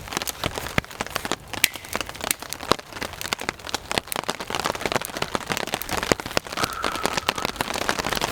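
Rain falling: a dense, irregular patter of drops striking close by over a steady hiss.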